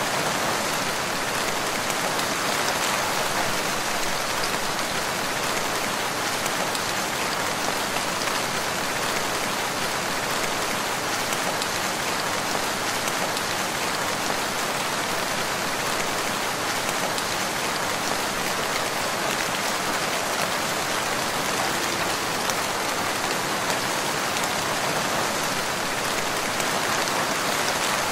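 Steady rain falling on a forest, a constant even patter of drops with no change in intensity.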